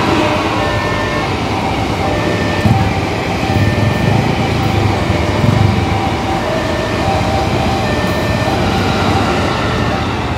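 Eight-car former JR East 205-series electric commuter train passing over a level crossing: a steady low rumble of wheels on the rails, with a few heavier knocks. The crossing alarm keeps sounding its repeating electronic tones over it.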